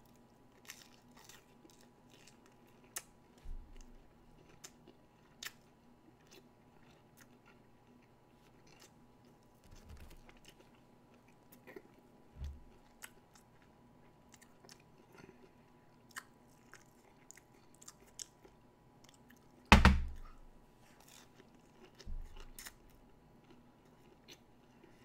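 A person chewing McDonald's chicken McNuggets, with many small wet mouth clicks and a few dull low knocks. One much louder sharp thump comes near the end.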